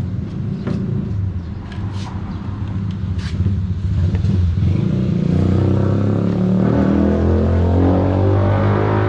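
A motor engine running steadily, growing louder about halfway through, with a few light clicks in the first half.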